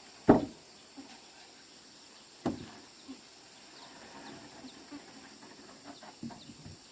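Two heavy thumps about two seconds apart, the first the louder, with a few light knocks between and after, over a steady faint high-pitched hum.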